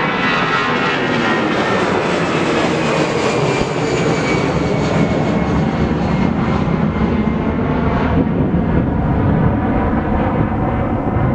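Jet airliner's engines running loud as the aircraft passes, a broad rush with a faint high whine that drifts slightly lower; the high end fades about eight seconds in as it moves away.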